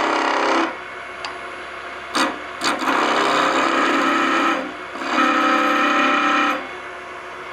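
Skew chisel cutting a hickory spatula blank spinning on a wood lathe: three passes of hissing, scraping cut, each carrying a steady humming tone, with a sharp knock a little over two seconds in.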